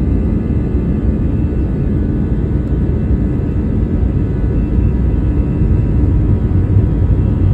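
Airplane taking off: a loud, steady low rumble of engines and airflow, with faint steady higher tones over it.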